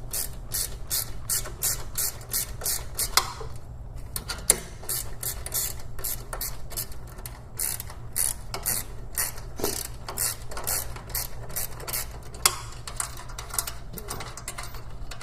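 A hand ratchet clicking in a steady run, about three clicks a second, as a 13 mm bolt on a motorcycle exhaust mount is backed out. It pauses briefly about four seconds in, and a few louder metal taps stand out.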